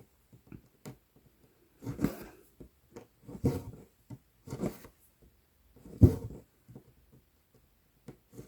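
Cross-stitch needle and embroidery floss pulled through 11-count Aida fabric, a short rasp every second or so with small ticks from the needle in between.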